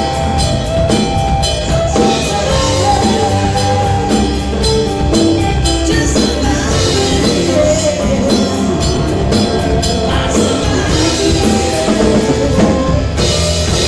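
Rock band playing, with a drum kit keeping a steady beat under the other instruments.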